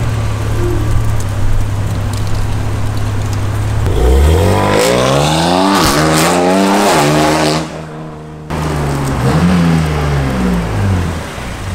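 Car engine idling with a steady low drone, then revved several times from about four seconds in, the pitch climbing and dropping in quick blips before settling back to idle.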